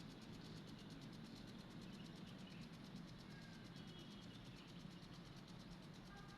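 Faint, steady outdoor nature ambience with a low, even rush, and a couple of faint, brief high chirps about two-thirds of the way through.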